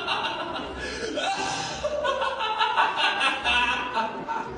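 A contestant's evil laugh: a long, staged laugh in rapid pulses, with some music underneath.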